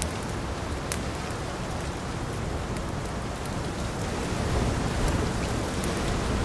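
Steady rain with a low rumble of thunder that swells about two-thirds of the way through, over scattered sharp crackles of a wood fire.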